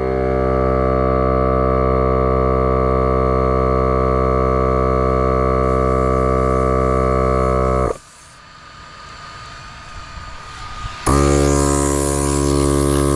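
Small portable air compressor running at a steady pitch to inflate a flat truck tire. It cuts off sharply about eight seconds in, then starts again about three seconds later with a loud hiss of air alongside the motor.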